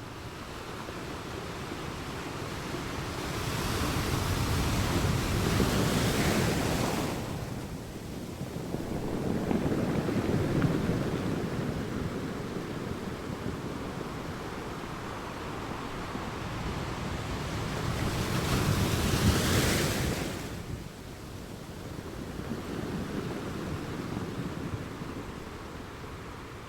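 Ocean waves breaking and washing up a shore, the surf swelling and fading in slow surges; the two biggest waves break about six seconds in and again near twenty seconds.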